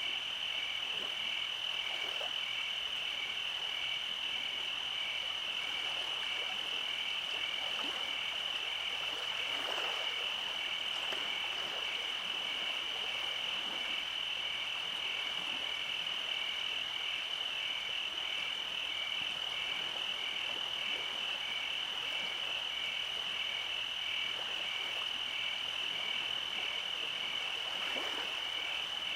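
Night chorus of small calling creatures: a steady high trill, with a second call just below it that pulses evenly, a little under twice a second, throughout.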